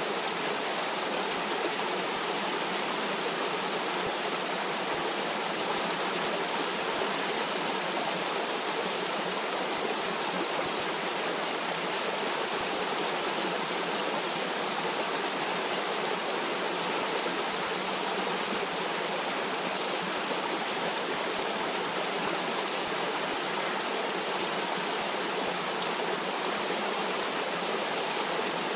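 Stream water flowing over rocks in a steady, even rush with no other sounds.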